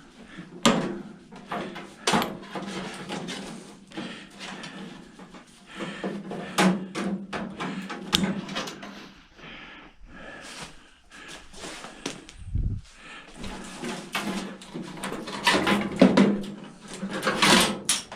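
Scattered clicks, knocks and clatter of metal parts and wiring being handled while an old microwave oven is taken apart for scrap, with one dull low thump about twelve seconds in.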